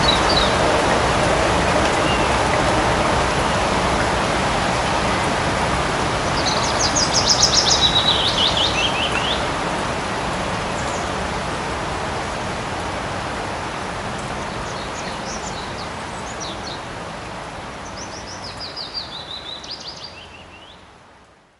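Light rain falling steadily in a forest, with a bird calling in quick trills about seven seconds in and again near the end. The whole fades out at the very end.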